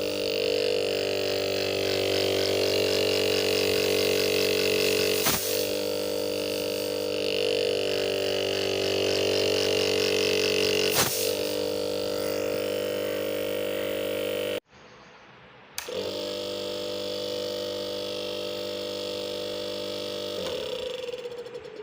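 Refrigerator compressor running after internal repair: a steady electric hum with a buzzy edge, with two short clicks. It breaks off for about a second about two-thirds through, then hums again and winds down in pitch near the end.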